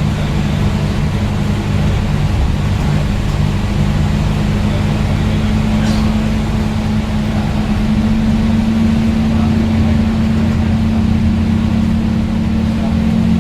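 Scania N230UD double-decker bus's five-cylinder diesel engine running steadily, a constant low hum.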